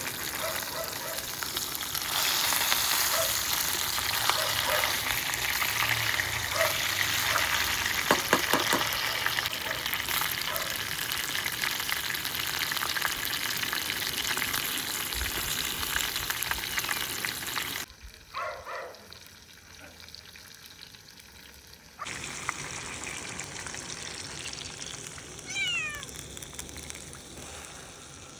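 Food frying in hot oil in a pan, a steady loud sizzle with a few clicks of a utensil about eight seconds in. The sizzle cuts off abruptly a little past halfway, leaving a quieter stretch with a couple of short high calls, one falling in pitch near the end.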